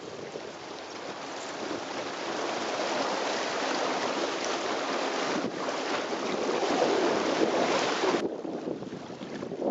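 Wind rushing on the microphone and water washing along the hull of a Catalina 22 sailboat under way. It is a steady rushing noise that builds over the first few seconds and drops off abruptly about eight seconds in.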